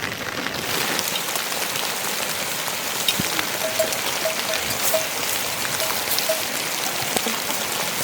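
Steady rain falling, an even hiss with many separate drops ticking. A faint series of short repeated notes sounds in the middle.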